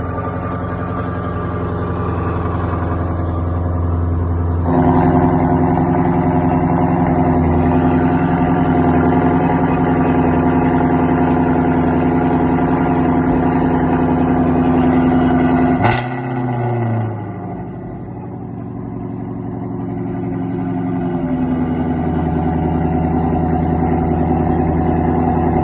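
Ford Shelby GT350's V8 just after a cold start, running at a fast idle that steps up and gets louder about five seconds in. About two-thirds through there is a sharp click, and the idle speed falls away, then climbs a little again near the end.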